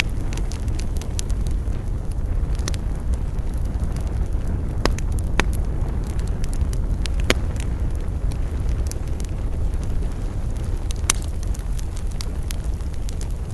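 Campfire crackling: sharp wood pops come at irregular intervals over a steady low rumble. A few louder pops fall about five, seven and eleven seconds in.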